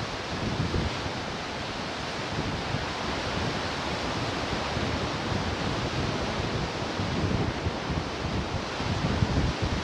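Ocean surf washing steadily onto the shore, a continuous rushing hiss with a low rumble that swells near the end, with wind buffeting the microphone.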